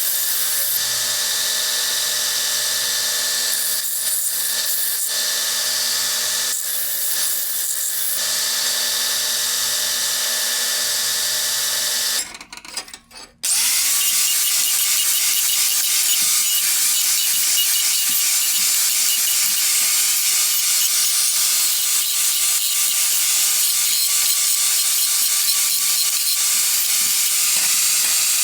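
Electric drill running, drilling holes in iron hinge straps. It stops for about a second some twelve seconds in, then the motor starts up again and runs with a steady hum.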